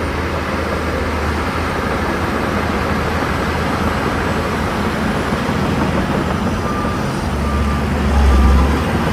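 Shantui DH17C2 bulldozer's diesel engine running steadily with a low rumble that swells briefly near the end.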